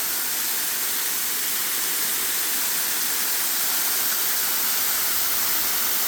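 Waterfall pouring steadily into its pool, a constant rushing hiss.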